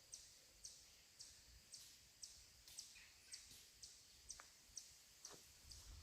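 Faint, high chirp repeated evenly about twice a second, with a couple of soft clicks later on.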